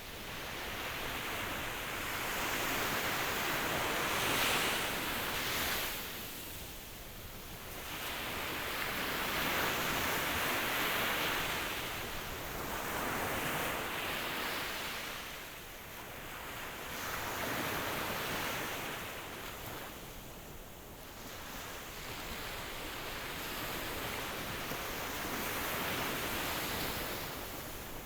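Ocean waves breaking and washing in, rising and falling in slow surges every few seconds.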